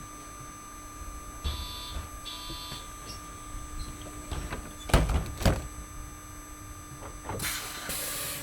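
City bus doors working at a stop: two short beeps, then two loud knocks about five seconds in, and a burst of air hiss near the end. Under it runs the steady hum of the MAN Lion's City Hybrid bus standing still.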